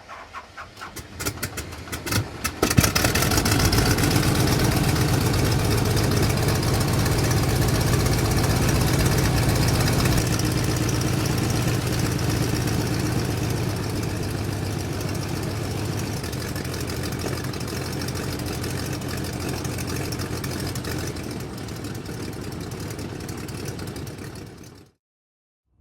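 Vehicle engine cranked by its starter in a rapid stutter for about three seconds before it catches, then idling steadily and gradually settling quieter, cut off abruptly near the end.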